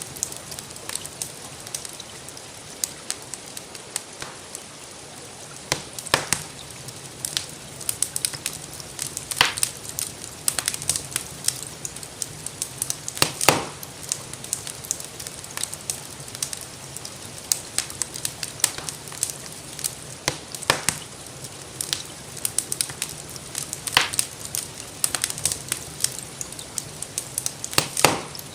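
Wood fire crackling in a fireplace, with frequent small clicks and a loud pop every few seconds, over a steady hiss of rain.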